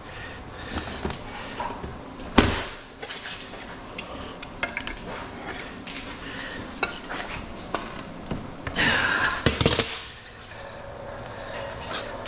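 Pieces of scrap metal being handled and sorted, clinking and clanking, with one loud clank about two seconds in and a louder scraping clatter about nine seconds in.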